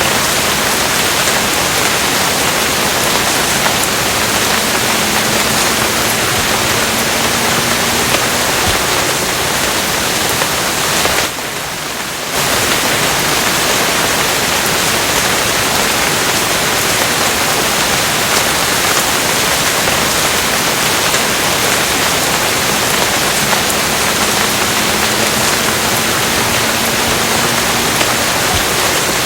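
Steady heavy rain, a dense even hiss. About eleven seconds in it briefly drops quieter for about a second, then returns.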